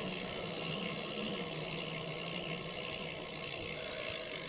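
Steady hum of a motor vehicle with noise over it, its low pitch sinking slightly.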